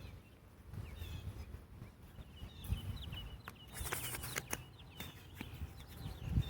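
Small birds chirping in short, scattered notes over a low outdoor rumble, with a few sharp clicks.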